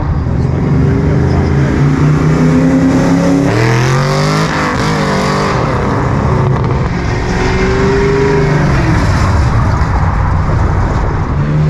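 A loud car engine running with a deep rumble, its pitch climbing steadily for a few seconds as it accelerates, then climbing again from about six seconds in before dropping away.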